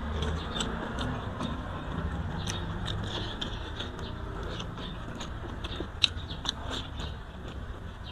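Close-miked eating of grilled carp and rice: chewing with many small wet mouth clicks and lip smacks, and one sharper click about six seconds in. A low steady rumble runs underneath.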